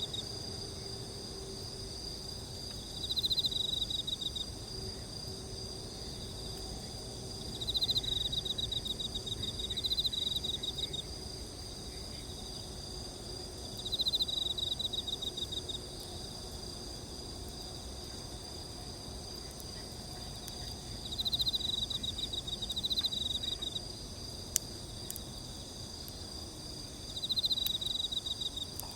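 Insect chorus: several steady high-pitched trills, joined every few seconds by a louder pulsed trill that lasts one to two seconds at a time. A single sharp click comes near the end.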